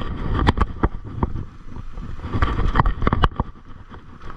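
Mountain bike being ridden over rough trail, with low wind rumble on the microphone and sharp clicks and knocks from the bike jolting over bumps. The clicks come in two clusters, about half a second in and again around three seconds in.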